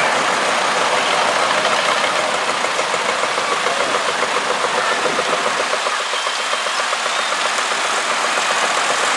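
Vintage tractor engine running with a steady, rapid firing beat.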